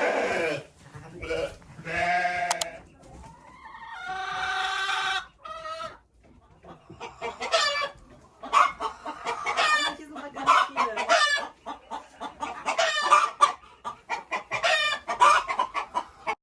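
A flock of chickens clucking, with a longer drawn-out call about four seconds in. From about seven seconds, many short, quick clucks follow one another.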